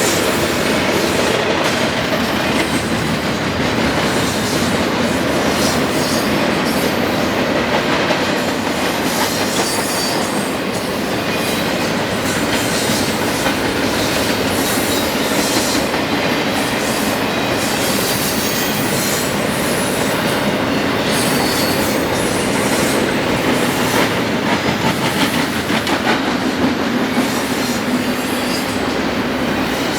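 Train cars rolling past close by: a steady, loud rumble of steel wheels on rail, with rapid clicking as the wheels run over rail joints.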